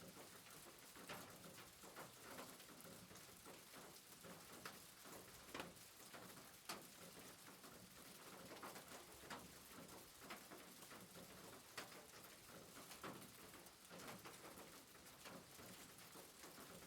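Soft rain: a faint, steady hiss with scattered drops pattering.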